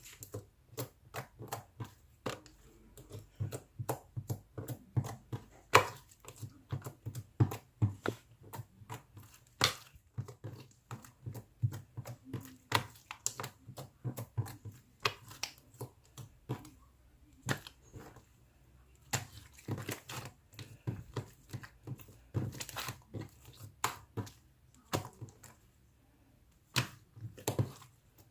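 Slime being squeezed and kneaded by hand, giving irregular sharp clicks and pops, a few each second, with occasional louder snaps.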